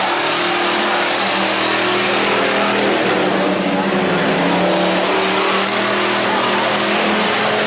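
Demolition derby car engines running and revving in a steady, loud wash of engine noise.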